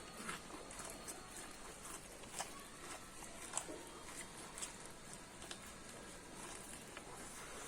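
Close-up sounds of someone chewing corn: soft wet mouth noises with irregular small crisp clicks as kernels are bitten.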